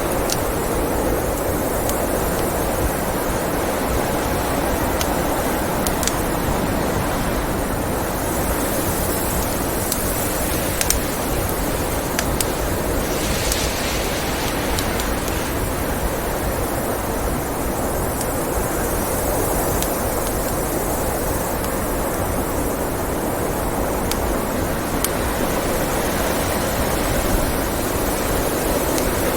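Steady blizzard wind blowing, with the occasional sharp crackle and pop of a wood fire burning in a fireplace.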